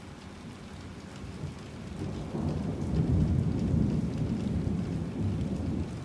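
Steady heavy rain with a roll of thunder that swells from about two seconds in, rumbles low for a few seconds and fades near the end.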